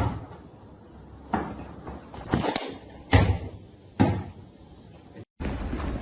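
A series of about five sharp knocks or bangs, roughly a second apart, like a cupboard door or door banging.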